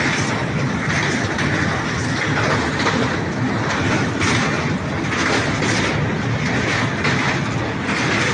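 Train running on the rails: a steady loud rumble with a recurring clatter that swells about once a second.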